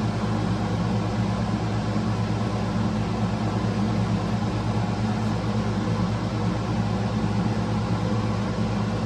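Steady low machine hum from a running motor, unchanging, with a faint even hiss above it.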